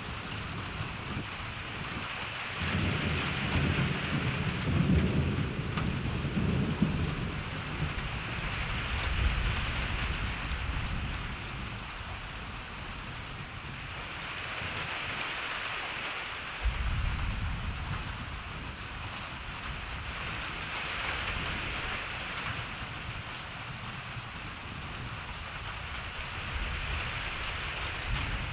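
Steady rain falling, with rolling thunder rumbling: a loud roll from about two seconds in that fades out after several seconds, and a second, sharper-starting roll just past halfway.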